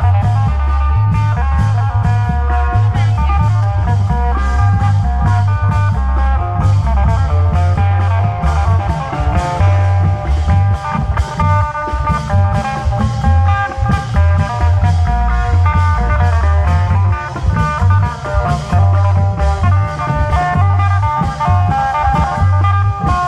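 Isan klong yao (long drum) procession band playing: a steady low drum beat under a busy plucked-string melody.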